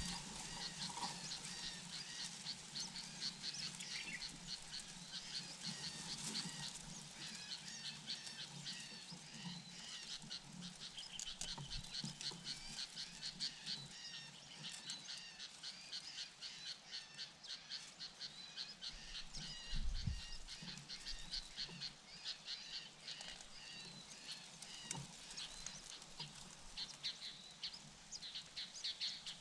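High-pitched chirping calls, repeated rapidly and continuously. A brief low thump comes about twenty seconds in.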